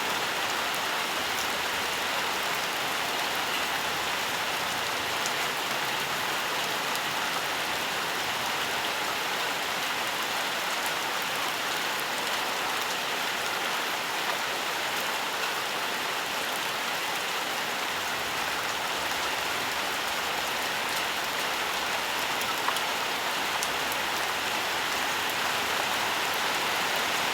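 Steady rainfall: an even hiss of rain with scattered drops pattering.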